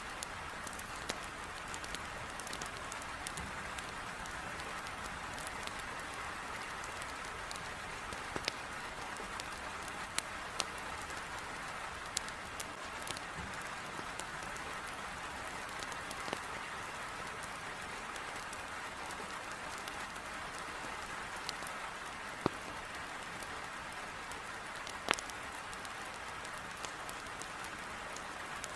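Heavy rain pouring steadily against a window, with the scattered sharp crackles and pops of a wood fire burning in a fireplace.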